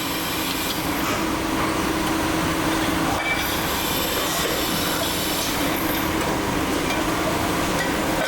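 Factory machinery running steadily: a constant hum over a continuous mechanical noise, with a faint high whine.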